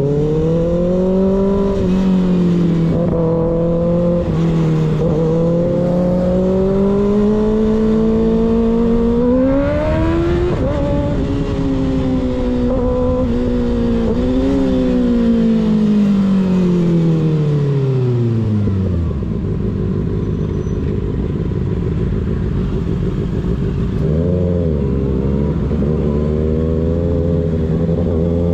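Sport motorcycle engine with an unbaffled slip-on exhaust, heard close up while riding. It climbs in pitch, drops sharply on a gear change about ten seconds in, then falls slowly as the bike slows to a low steady note. Near the end a short rise in revs leads into a steady pull again, all over a constant rush of wind.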